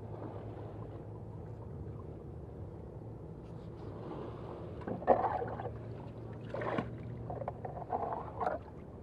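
Steady low hum of a boat engine running near the water. About halfway through, several short, irregular noises break in, the loudest just after the midpoint.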